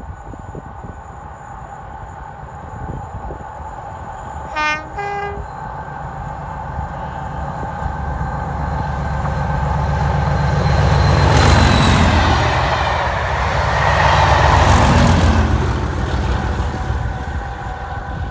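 Diesel-hauled test train approaching and passing at speed. A brief two-tone horn sounds about five seconds in, then engine and wheel noise build to a loud peak as the locomotive goes by, surge again about three seconds later, and fade away.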